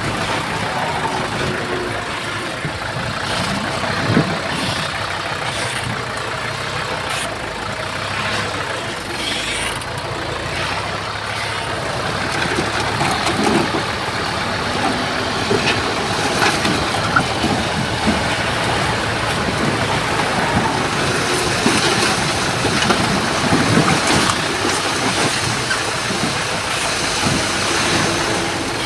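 Heavy diesel earthmoving machinery running steadily, with occasional short knocks and clanks.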